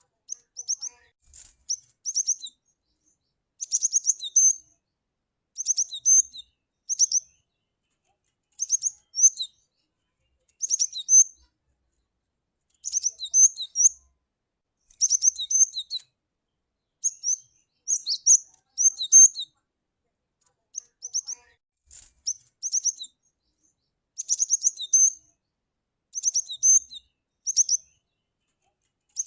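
Cinereous tit (glatik batu) calling: short phrases of quick, high, thin notes, each ending in one or two lower notes, repeated about every one to two seconds with brief silent gaps between.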